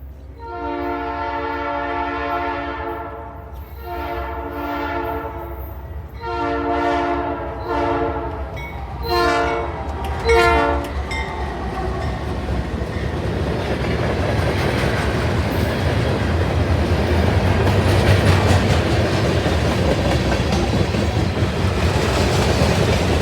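Horn of a Norfolk Southern AC44C6M diesel locomotive, a horn called very foul, sounding a series of blasts: two long ones, then several shorter ones, the last dropping slightly in pitch as the locomotive goes by. About eleven seconds in, the horn stops and the train rumbles past, wheels clacking on the rails, growing louder toward the end.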